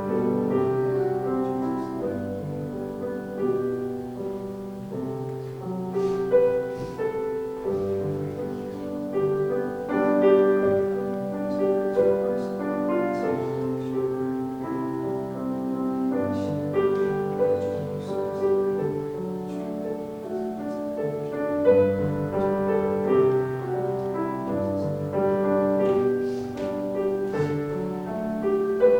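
Slow, gentle instrumental piano music, sustained chords and a melody moving in steady notes.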